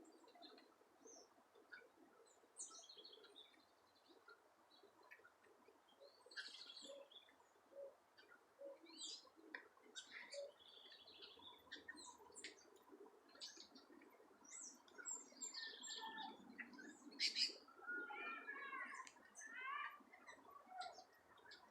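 A faint mix of several kinds of birds calling, with many short chirps and calls scattered throughout, the loudest a little past the middle, then a run of quick repeated notes near the end.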